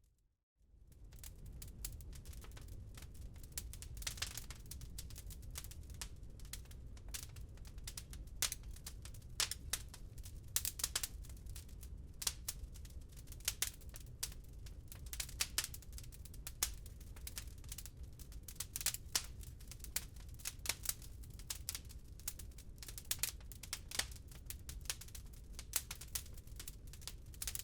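Wood fire crackling, with many irregular sharp pops and snaps over a steady low rumble. The sound drops out for a moment at the very start, then fades back in.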